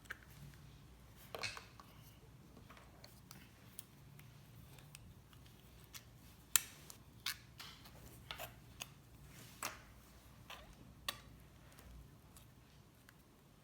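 Faint, irregular clicks and taps, about a dozen spread unevenly, the sharpest about halfway through, over a low steady hum that fades away near the end.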